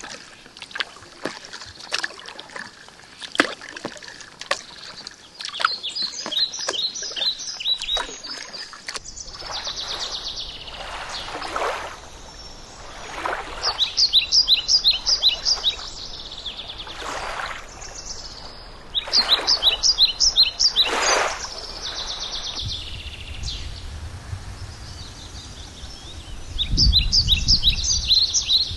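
A songbird singing in four short bursts of rapid, repeated high notes, with water swishing from kayak paddle strokes in between. Some light ticks early on, and low wind rumble on the microphone near the end.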